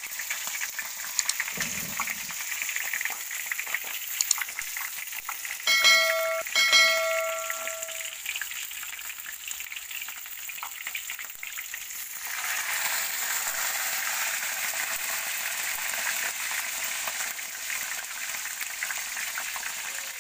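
Buff-banded rails (tikling) deep-frying in hot oil in a wok, a steady sizzle that grows louder about twelve seconds in. Around six seconds in, two short ringing tones about a second apart cut in over it.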